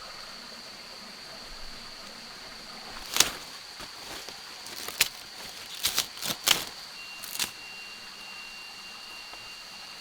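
Steady high-pitched insect drone of the rainforest, with a second, thinner tone joining about seven seconds in. Over it come about six sharp clicks or snaps between roughly three and seven and a half seconds in.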